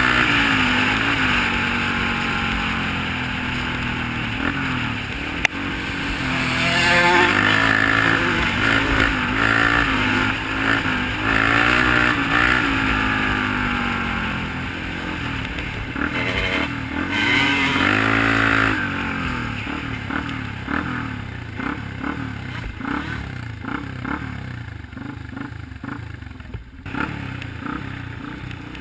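Off-road vehicle engine revving up and down while riding. Its pitch climbs steeply twice, and it gets quieter toward the end.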